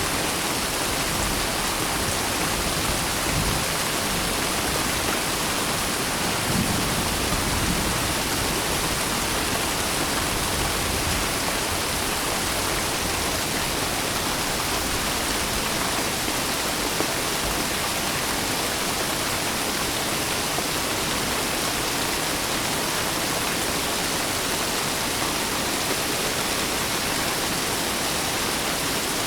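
Steady heavy rain, a dense even hiss that does not let up, with a faint low rumble a few seconds in.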